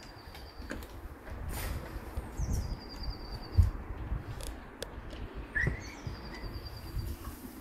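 A bird calling outdoors three times, each call a high thin note that drops and then holds for about a second, with a short chirp between the last two. Low wind or handling rumble runs underneath, and a single thump about halfway through is the loudest sound.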